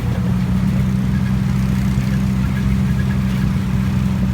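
A boat's motor running steadily with a low, even hum.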